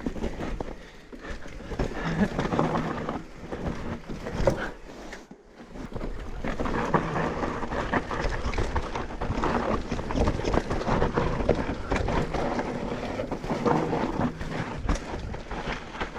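Mountain bike ridden fast down a rough trail: wind rushing over the camera microphone, with tyres and bike rattling over uneven ground in many short knocks.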